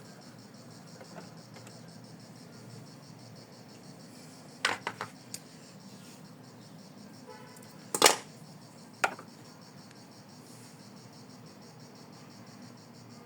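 Embroidery machine stitching black thread detail, a steady mechanical hum with a fine rapid high-pitched rattle. A few sharp clicks break through about five seconds in, a louder one at about eight seconds and another a second later.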